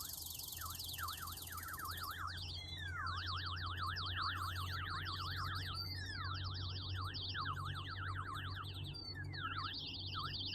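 Korg Volca FM synthesizer playing a rapid warbling tone that sweeps up and down in pitch many times a second, like a car alarm, over a steady low hum.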